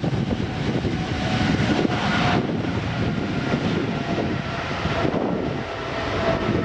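Airliner engine and airflow noise, a steady rush with a few faint steady tones running through it.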